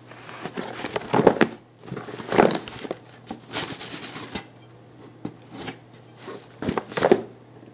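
A knife cutting open a cardboard shipping box: irregular scrapes and knocks of the blade on tape and cardboard, several times over.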